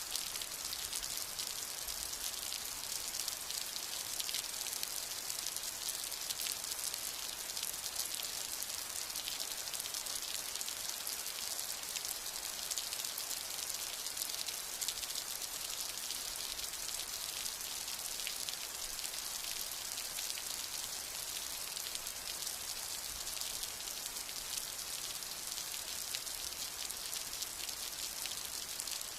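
Steady rain falling: an even hiss thick with tiny drop ticks, strongest in the high range.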